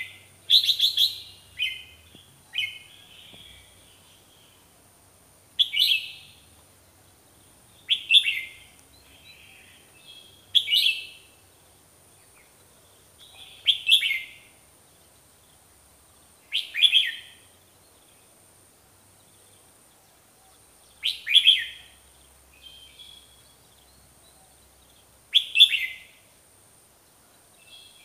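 Bulbul singing short, bright chirping phrases, one every two to four seconds.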